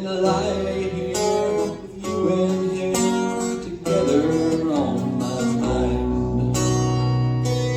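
Acoustic guitar strumming chords in a live country song, with a sung vocal line over it; a deeper bass note comes in about two thirds of the way through.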